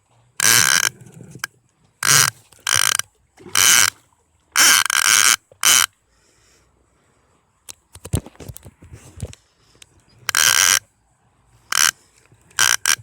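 Fishing reel ratcheting out line in about ten short, loud bursts as a hooked pacu pulls against the drag, with a quiet spell in the middle.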